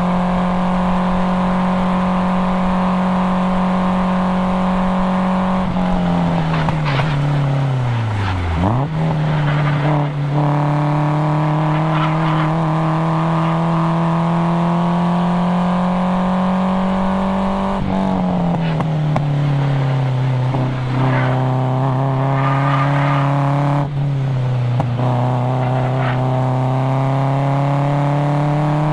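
Nissan 240SX's KA24DE four-cylinder engine with cat-back exhaust, under hard track driving. It holds high revs, then falls steeply in pitch about six seconds in as the car slows, before pulling again with the pitch climbing slowly. It drops twice more, around eighteen and twenty-four seconds, and climbs again each time.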